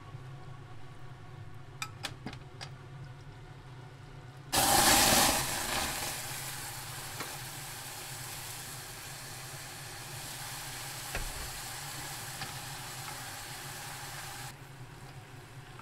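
Food going into a hot oiled pan, starting suddenly and loudly about four and a half seconds in, then settling into a steady sizzle that stops abruptly near the end. A few light clicks come before it.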